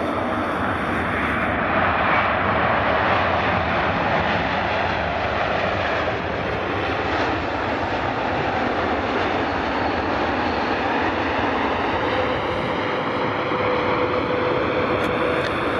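Jet engines of a Boeing 787-9 Dreamliner, a steady loud roar passing the airfield, with a steady hum coming in about three-quarters of the way through.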